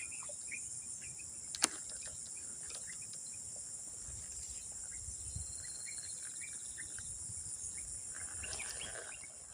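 Steady high-pitched chorus of insects such as crickets, with scattered faint chirps and a single sharp click about a second and a half in.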